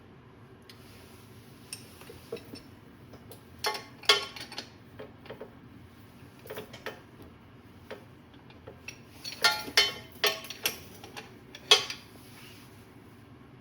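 Scattered sharp metallic clinks and clatters, in two busy clusters: one about four seconds in and a louder run from about nine and a half to twelve seconds in.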